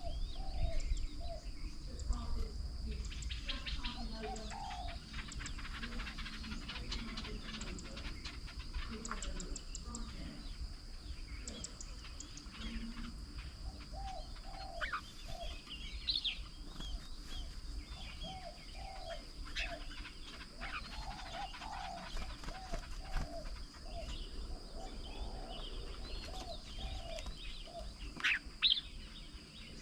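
Birds calling around a garden bird table: short low calls repeat throughout, mixed with scattered higher chirps and a few sharp high notes, over a faint steady high-pitched tone.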